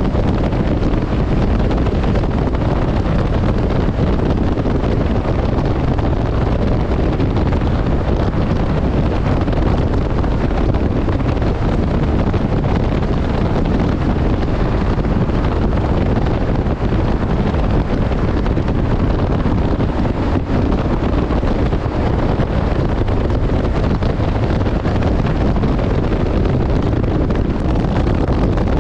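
Steady rush of wind on the camera's microphone while riding a Honda CRF1100 Africa Twin motorcycle at road speed, with the bike's running noise blended underneath.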